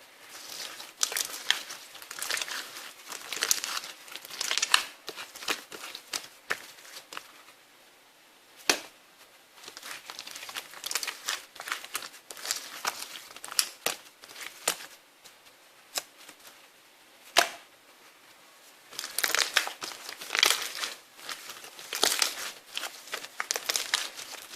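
Irregular bursts of crinkling and rustling, with scattered sharp clicks; it goes quieter for a few seconds in the middle and is busiest near the end.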